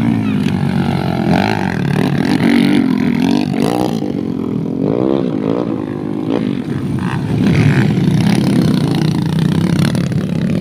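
Dirt-bike engines running and revving, their pitch rising and falling again and again as the throttle opens and closes.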